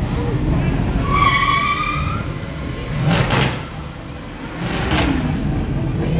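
Car engines rumbling, with a high tire squeal lasting about a second that starts about a second in.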